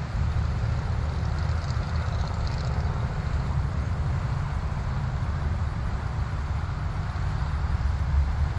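Jet aircraft engines at takeoff power, a steady low rumble, with a faint high whine for a second or so near the start.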